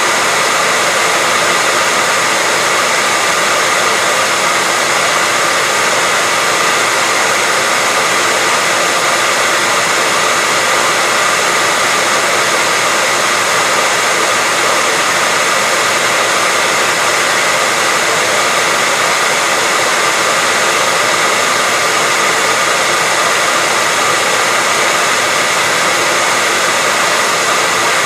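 Hair dryer running steadily: an even, unbroken rush of air with a faint steady whine from its motor, played as white noise.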